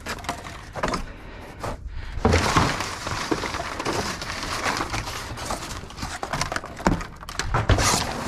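Irregular knocks, scrapes and clatter of garage door sections and debris being handled in a dumpster, with a few heavier thumps.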